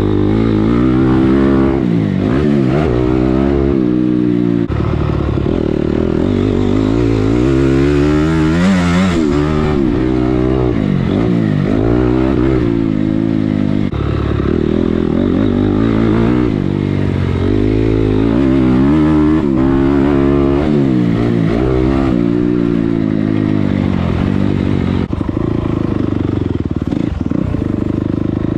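Motocross dirt bike engine revving up and falling back again and again, every few seconds, as it is ridden around the track.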